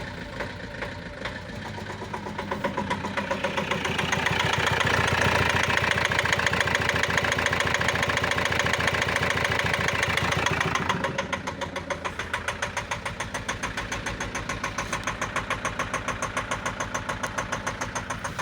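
Renault Master II's 2.5-litre diesel engine running with a knock: it idles, is revved up a couple of seconds in and held at raised speed until about eleven seconds in, then drops back to idle with a regular knock on each beat.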